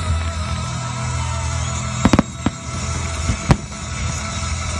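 Aerial firework shells bursting in the sky: a few sharp bangs, two close together about two seconds in and another about a second later, over steady background music.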